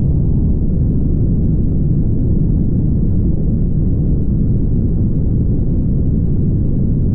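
Steady low rumble of a car travelling at highway speed: tyre, road and wind noise, muffled and without any clear engine tone.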